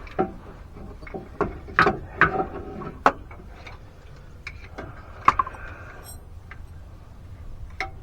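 Irregular clicks and clunks of a transfer case actuator motor being pushed and worked against the transfer case as it fails to slide into place, with one short metallic ring about five seconds in.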